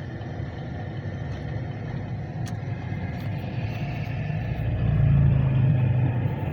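Road and engine noise of a car driving on the freeway, heard from inside the cabin: a steady low rumble that swells louder for a second or two about two-thirds of the way through.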